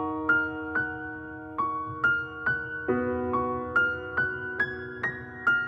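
Background music: a slow solo piano intro, single notes struck about twice a second over held chords, with the bass chord changing near the middle.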